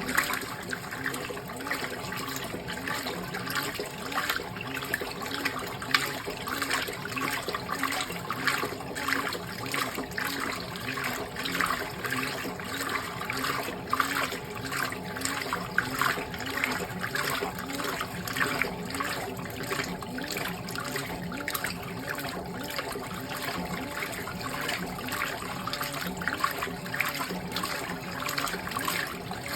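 Fisher & Paykel GW712 top-loading washing machine agitating a wash load: water sloshing and churning in repeated surges as the agitator swings back and forth, over a steady low hum.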